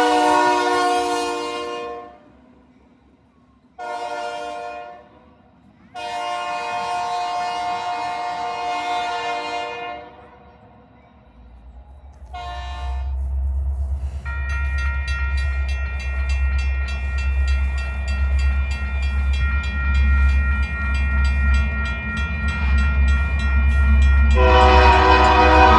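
Diesel locomotive air horn sounding a series of blasts: one ending about two seconds in, a short one, a long one of about four seconds, and another short one. A loud low engine rumble then builds as the train passes, with faint steady high tones over it, and the horn sounds again near the end.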